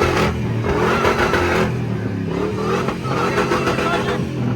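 Supercharged truck engine held at high revs during a burnout, with a wavering high supercharger whine over the engine note.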